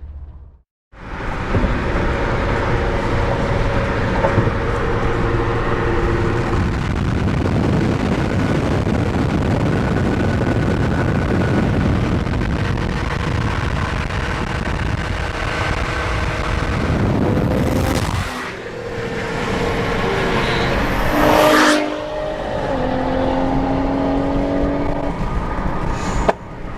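Tuned 1000 hp Nissan GT-R engines at full throttle, accelerating hard and passing by. The loud engine sound dips briefly twice late on.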